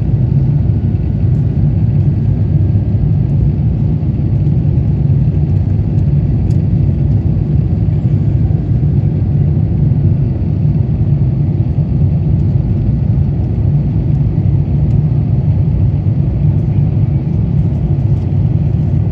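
Steady low rumble of an Airbus A350-900 in flight, heard inside the passenger cabin: the Rolls-Royce Trent XWB engines and the airflow over the fuselage during the climb.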